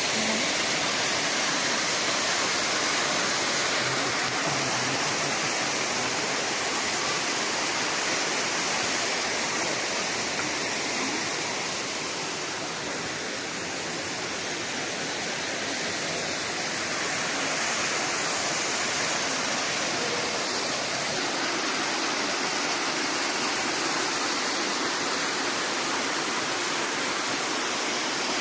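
Waterfall rushing steadily, a dense even roar of falling water that eases slightly about halfway through.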